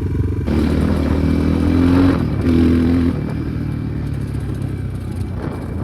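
Enduro motorcycle engine revved up twice, its pitch rising each time, then running more steadily at lower revs; the sound drops away suddenly at the very end.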